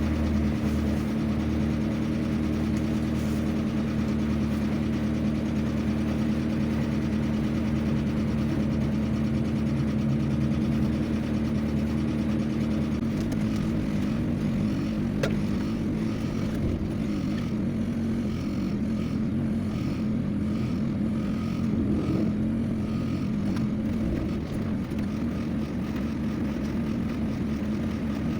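Vehicle engine running steadily while on the move, with road or wind noise underneath; its tone shifts about halfway through.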